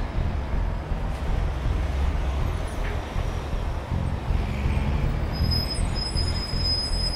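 Steady road traffic noise, vehicle engines rumbling as a continuous background. A thin, high steady tone comes in about five seconds in.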